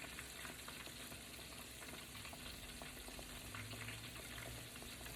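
Battered chicken pieces frying in hot grease in a skillet: a steady sizzle with scattered pops and crackles.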